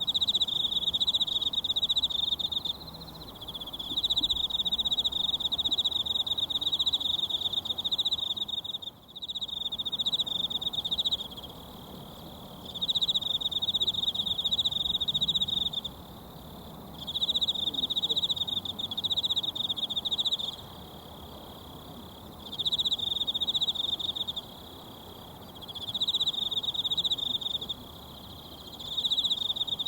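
An insect trilling in repeated high-pitched bouts a few seconds long with short pauses between them, over the steady rush of a mountain stream.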